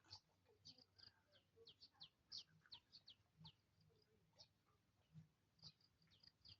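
Faint chirping of small birds: many short, high notes, each sliding downward, coming irregularly a few per second.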